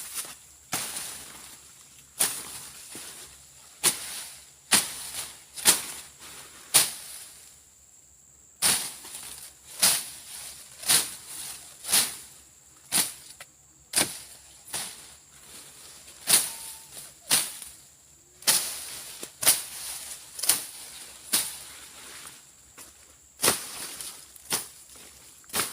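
Repeated swishing chops of a brush-clearing blade slashing through overgrown grass and cassava, roughly one stroke a second, with short pauses about eight and fourteen seconds in.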